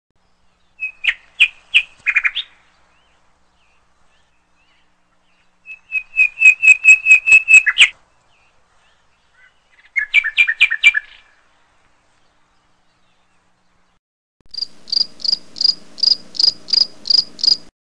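Bird calls: four bouts of rapid, evenly repeated notes, each lasting one to three seconds with silence between them. The last bout, near the end, is higher-pitched than the others.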